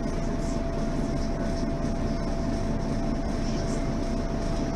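Mercedes-Benz Citaro Facelift city bus running, a steady drone of engine and road noise with a thin whine held at one pitch.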